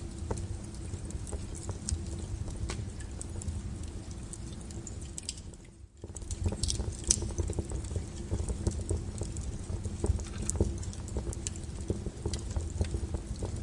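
Wood fire burning, with irregular crackles and sharp pops over a low steady rumble. The sound dips almost to nothing for a moment about six seconds in, then comes back.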